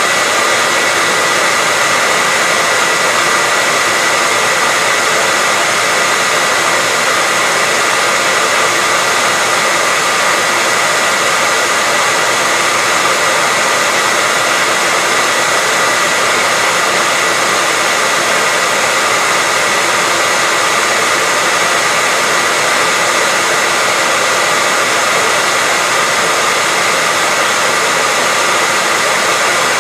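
Hair dryer blowing steadily: a constant rushing noise with a faint steady whine, without any change.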